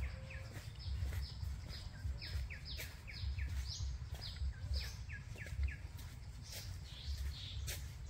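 A bird calling over and over in short falling chirps at a high and a lower pitch, about three a second, trailing off about two-thirds of the way through, with a low rumble underneath.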